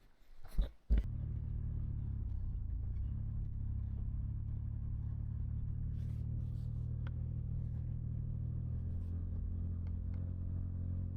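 A couple of knocks about a second in, then a motor vehicle's engine runs steadily. Its pitch shifts slightly a couple of seconds in and again near the end.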